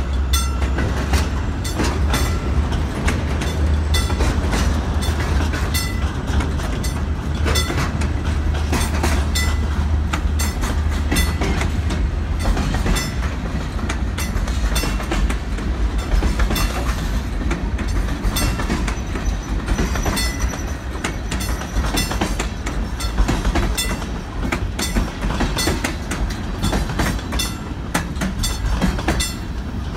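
Freight train cars rolling past at a street crossing, their wheels clacking irregularly over the rails. A steady low rumble runs underneath and is heaviest in the first half.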